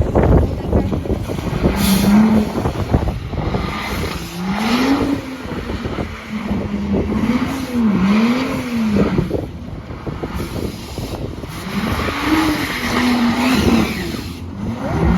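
Car engine revving hard again and again during a burnout, its pitch swinging up and down about once a second over a steady wash of noise.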